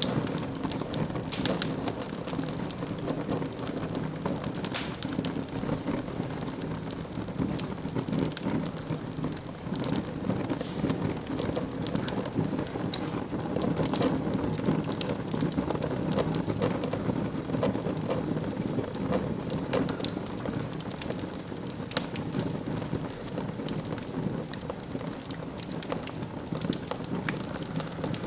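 Wood fire in a fireplace crackling, with a steady low rush of flame under scattered sharp pops; one pop about 13 seconds in stands out louder.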